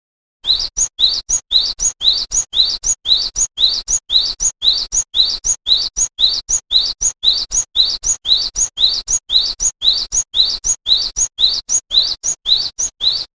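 Glatik wingko (cinereous tit) singing: after a short silence it repeats a high two-note phrase, a rising note followed by a still higher one, about twice a second.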